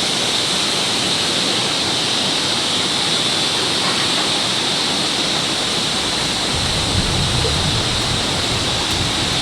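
Steady, even rushing noise with a hiss in the upper range; a low rumble joins about six and a half seconds in.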